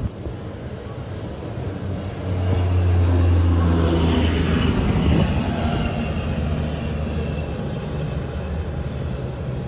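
An airliner's engines swell up about two seconds in and pass by, with a deep steady drone and a high whine that falls in pitch, then ease to a lower steady running sound.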